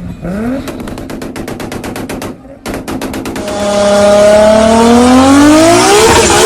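Tuned Toyota Supra MK4's 2JZ inline-six: a quick rev, then two runs of rapid stuttering pops from the engine and exhaust, then a hard full-throttle pull with the engine pitch climbing steadily and loud.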